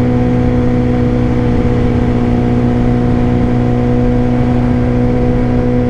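Suzuki GSX-R 600 inline-four engine running steadily at constant revs, with low wind rumble on the helmet mic.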